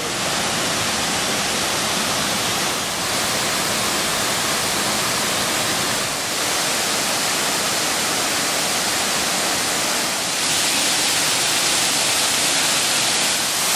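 Waterfall rushing: a steady, loud roar of falling water that gets louder and brighter about ten seconds in.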